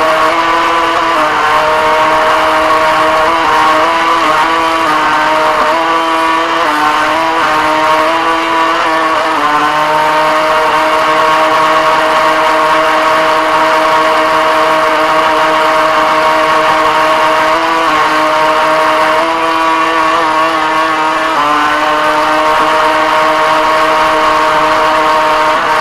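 Motor of a Viper RC boat running under way, heard close up from a camera mounted on the hull: a steady pitched whine whose pitch steps up and down slightly several times as the throttle changes.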